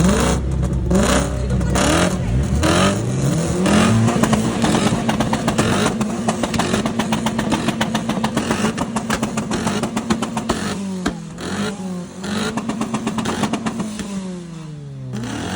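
High-performance car engine revved hard: several quick blips, then held at high revs for several seconds, dropping, blipped again and held once more before falling away near the end. A rapid crackle runs through it.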